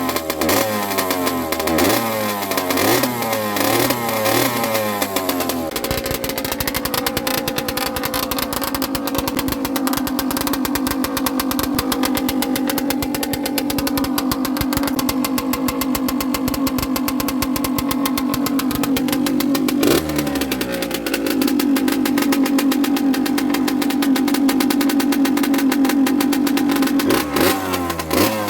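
Rieju Drac 50's two-stroke engine, ridden. For the first several seconds it climbs in pitch again and again, about once a second. It then holds a steady high pitch, drops and climbs again about two-thirds of the way through, and climbs in short rises once more near the end.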